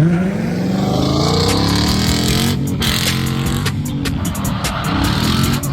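Ford S550 Mustang's engine revving hard as it is driven around the track, the pitch climbing and wavering, with two brief breaks in the sound: one about two and a half seconds in, one near the end.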